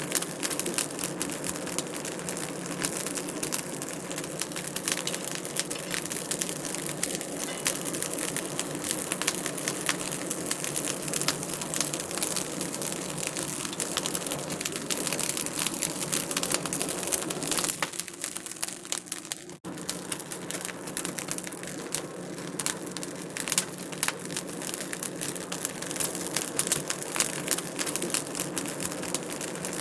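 Wood fire crackling in a fireplace: a dense, irregular stream of sharp pops and snaps over a soft hiss, briefly thinning about two-thirds of the way through.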